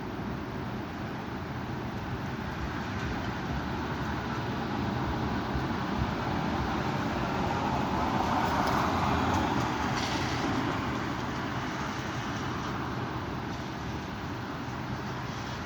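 Strong wind blowing, a steady rushing noise that swells into a stronger gust about eight to ten seconds in and then eases.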